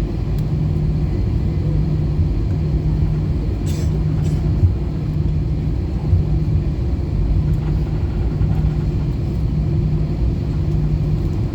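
Cabin noise inside an Airbus A320 on the ground before take-off: a steady low rumble from its CFM56 engines at low power and the rolling airframe. A low hum pulses on and off about once a second, and there is one brief click about four seconds in.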